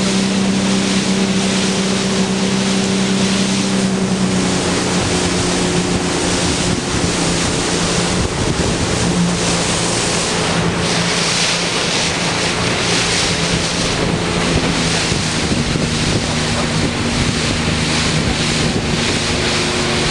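Motorboat engine running steadily under way, its hum shifting slightly in pitch about four seconds in. Water rushes past the hull and wind buffets the microphone in gusts, mostly in the second half.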